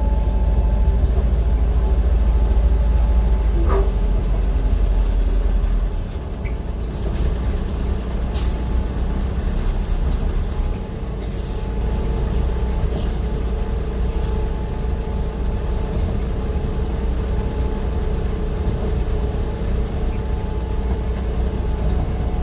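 Heavy vehicle engine with a steady low rumble that eases off about six seconds in. Several short, sharp hisses follow over the next several seconds.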